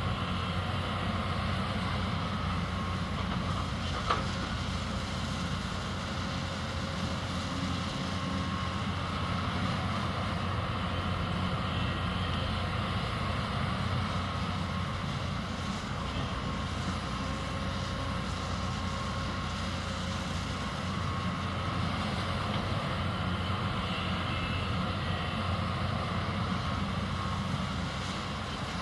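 Hyundai 220 excavator's diesel engine running steadily at working revs, with steady higher whining tones over the engine and one sharp knock about four seconds in.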